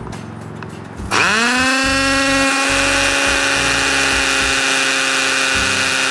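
Electric drill motor spinning up about a second in and then running at a steady high speed, a constant whine with no change in load.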